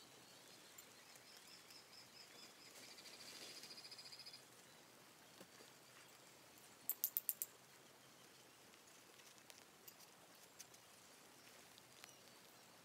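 Near silence, with a faint rapid bird trill lasting a few seconds, then a quick run of five sharp clicks about seven seconds in.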